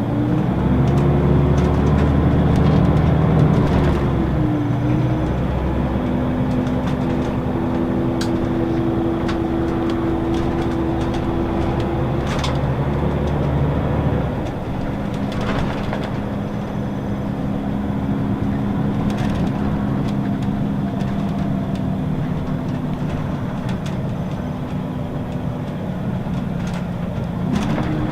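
Scania L94UB city bus engine and ZF automatic gearbox heard from inside the cabin. The pitch climbs as the bus pulls away, breaks at an upshift about four seconds in, and drops a little past halfway as it settles into steady running. Near the end it starts climbing again.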